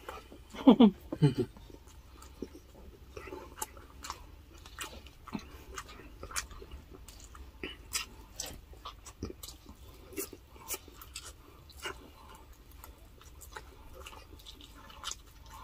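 Close-up chewing of grilled chicken and rice eaten by hand: many short, irregular wet smacks and soft crunches. A brief voiced sound about a second in.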